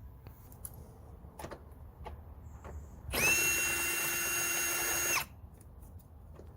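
A handheld power drill runs for about two seconds with a steady whine, rising in pitch as it spins up and dropping as it stops, with a few light clicks of handling before it.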